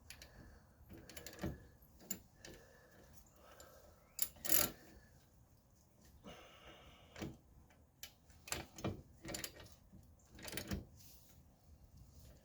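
Scattered light metal clicks and knocks from tools being handled and repositioned against a stuck suspension shaft, with one sharper knock about four and a half seconds in.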